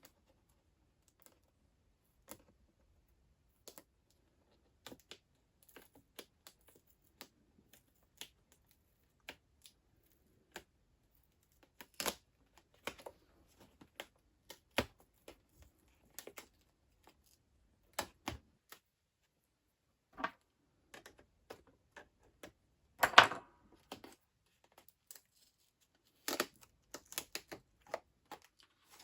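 Irregular light clicks and crackles of foil shielding tape being peeled back from an iMac's LCD panel, with a brief louder rustle about two-thirds of the way through.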